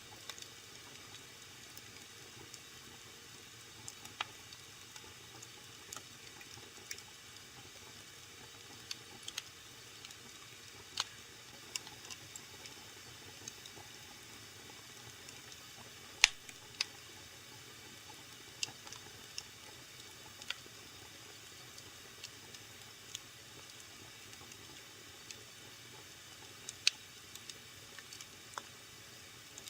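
Wood fire burning in a fireplace: a soft steady hiss with irregular sharp crackles and pops, the loudest pop about halfway through.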